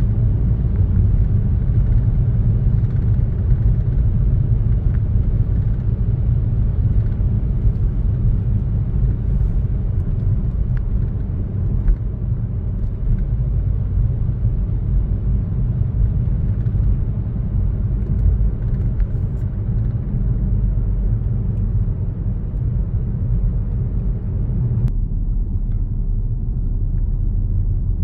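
A car driving along a road: a steady low rumble of engine and tyres with a hiss of road noise above it. Near the end the hiss drops away suddenly, leaving mostly the low rumble.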